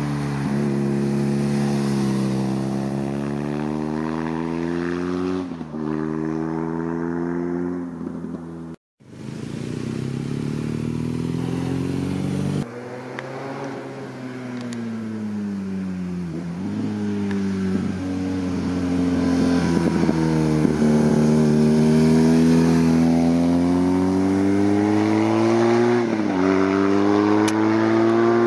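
BMW R nineT Scrambler's air-cooled boxer twin engine accelerating on the road. Its pitch climbs and then drops at each gear change, several times over, and the sound cuts out briefly about nine seconds in.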